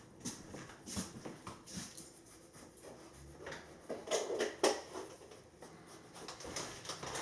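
Light clicks and scrapes of chia seeds being scooped with a plastic measuring scoop and tipped into a glass pint jar, with the rustle of the seed package being handled.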